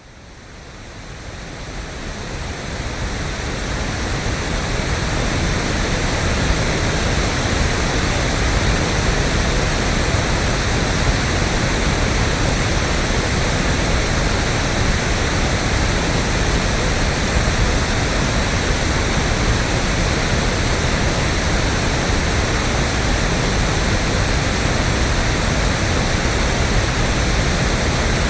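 Electronically generated pink noise: an even, steady rushing hiss with no tones or events, fading in over the first few seconds and then holding level.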